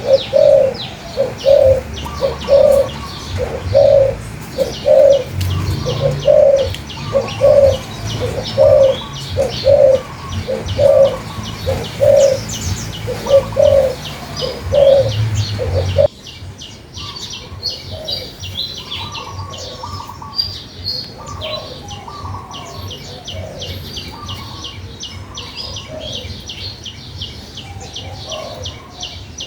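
A dove cooing over and over, a low coo repeated steadily more than once a second, over dense high chirping of small birds. About halfway through, the recording cuts abruptly to a quieter chorus of small birds chirping and calling, with no cooing.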